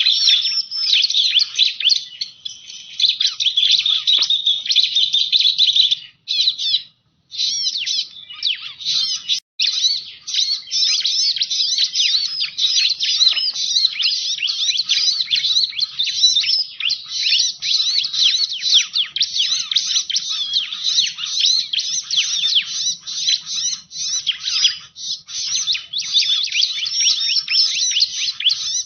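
Bar-winged prinia (ciblek) song, a lure recording: a dense, continuous stream of rapid high chirps and trills, broken by brief gaps about six and nine seconds in.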